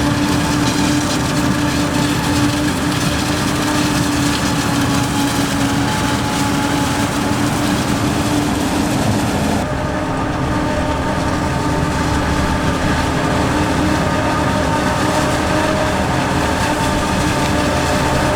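Heavy diesel farm machinery running steadily under load during corn silage harvesting, a continuous engine drone with a steady hum. About ten seconds in the sound changes abruptly and loses much of its high hiss.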